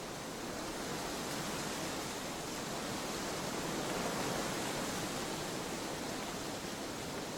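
Trade wind blowing in a steady rush, swelling a little about halfway through and easing again.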